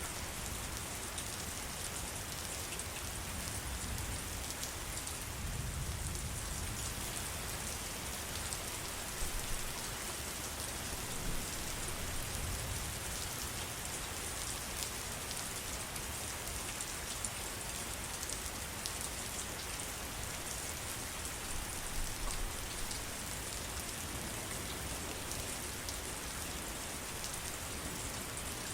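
Steady heavy rain falling on surfaces, an even hiss with fine drop patter and a few slightly louder gusts.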